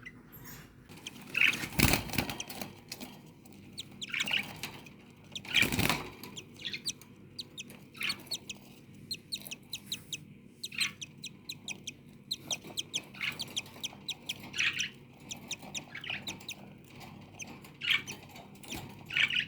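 Budgerigars chirping and chattering in quick, scratchy bursts throughout, with two short loud flurries of wing flapping at about 2 and 6 seconds.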